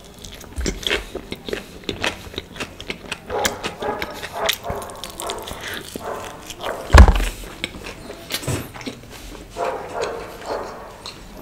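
Close-miked chewing and crunching of a mouthful of pizza with a crunchy chip, with a dog barking at times in the background. One loud sudden sound about seven seconds in.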